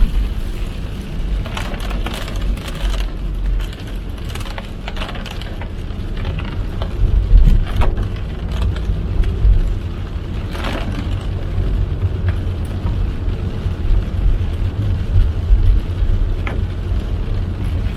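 Car driving in heavy rain, heard from inside the cabin: a steady low rumble of road and engine noise, with irregular taps of rain striking the car.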